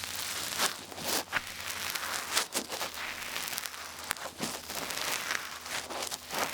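Large ear pick scraping and scratching in an ear, close up: a continuous run of irregular crackly scratches.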